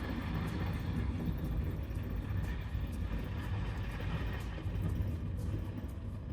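Passenger train running, a steady low rumble with faint clicks over it.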